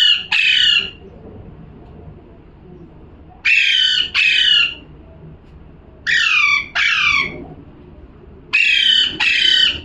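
A pet parrot squawking: harsh calls that come in pairs, each call sliding down in pitch, one pair about every two and a half seconds, four pairs in all.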